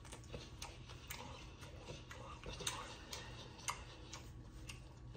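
Faint, irregular mouth clicks and smacks of a person chewing food and licking their fingers.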